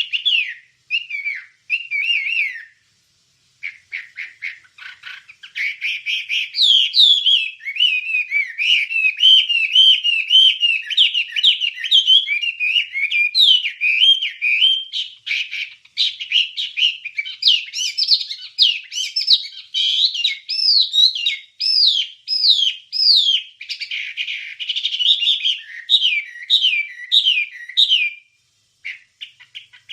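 Wambie bird singing a long, continuous song of rapid, looping whistled notes that sweep up and down in pitch, with a brief pause about three seconds in and another near the end.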